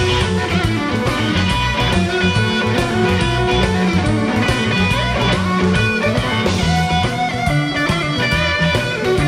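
Band music: electric guitar over bass and a steady drum beat.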